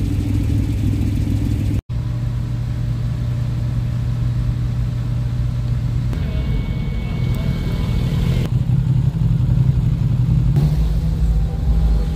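Car engines running at low speed, a steady low engine hum whose pitch shifts about six seconds in and again about eight and a half seconds in, broken by a sudden, very short dropout just under two seconds in.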